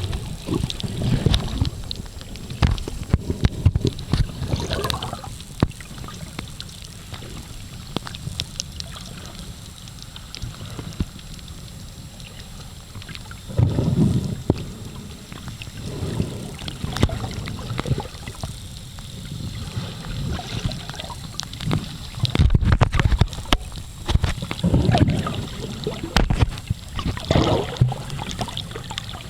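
Muffled water sloshing and gurgling against a camera recording underwater, in uneven surges with scattered crackles, the strongest at about fourteen seconds and again several times after twenty-two seconds.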